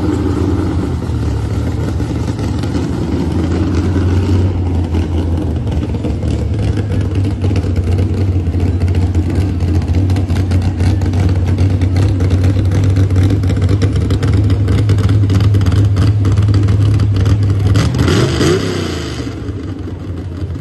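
Loud car engine running hard at high revs, held steady for most of the time, then easing off with a shift in pitch near the end.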